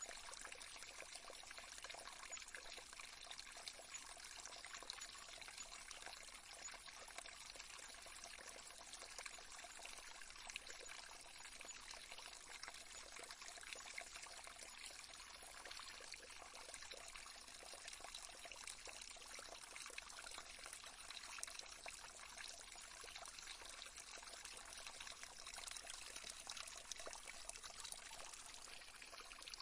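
Faint, steady trickling of a small stream.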